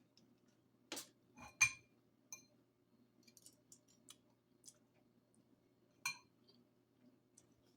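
Cutlery clinking against a dish with a slight ring: a quick cluster of clinks about a second and a half in, the loudest of them near the start, another single clink about six seconds in, and faint small ticks in between.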